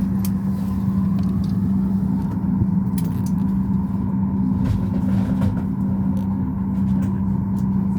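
Steady cabin hum of a Boeing 737 MAX 8 parked at the gate with its engines not yet started: a constant low drone with a steady mid-pitched whine on top and a few faint clicks.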